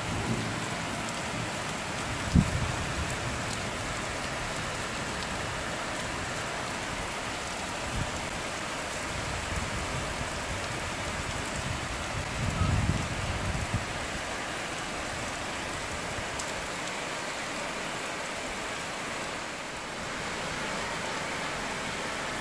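Heavy tropical rain falling steadily, a dense even hiss. A brief low thump about two seconds in and a short low rumble around the middle stand out from it.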